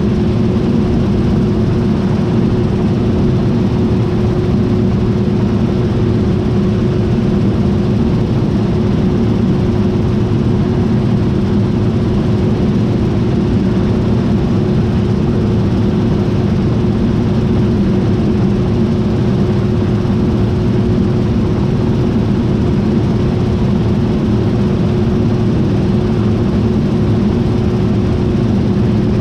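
John Deere T660i combine harvester running steadily: an even machine drone with a constant whine over it, unchanging throughout.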